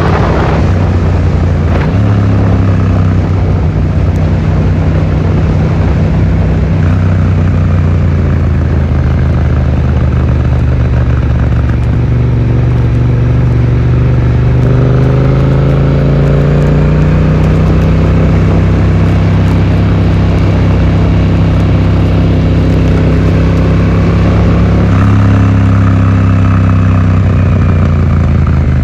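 Yamaha XSR700's parallel-twin engine running through an Akrapovic exhaust, heard from a phone in the rider's pocket while riding. The engine note steps in pitch about two seconds in, climbs slowly midway and shifts again near the end as the road speed changes.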